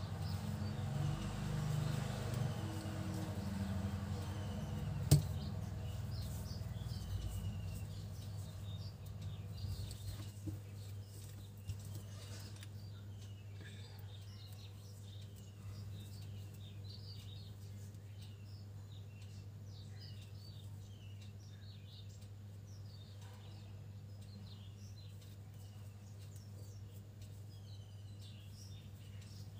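Faint, repeated bird chirps over a steady low hum, with one sharp click about five seconds in.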